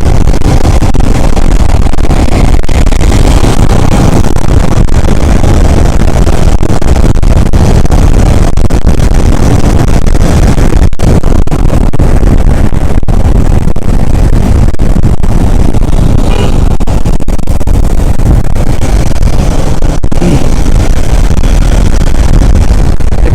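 Steady, loud riding noise from a moving motorcycle: wind rushing over the microphone, with engine and traffic noise underneath.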